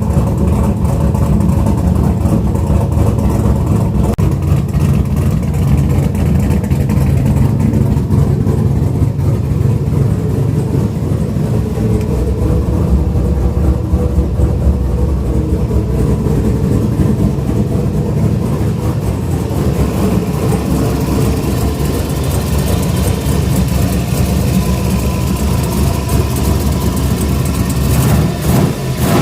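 Turbocharged GM 5.3-litre V8 idling steadily with a deep, low rumble, still warming up after a cold start.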